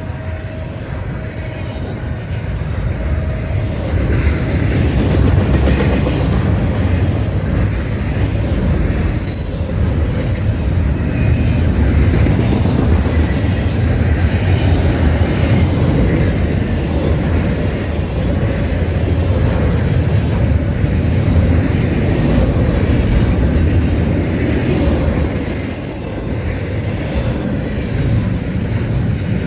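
Train rolling past: a steady rumble of railcars on the rails that builds over the first few seconds and holds, with a thin high wheel squeal for a few seconds early on.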